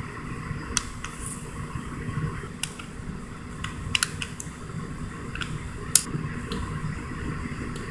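A fork pressing a design into the edge of a pie crust, its tines clicking irregularly against the dish, with one sharper click about six seconds in.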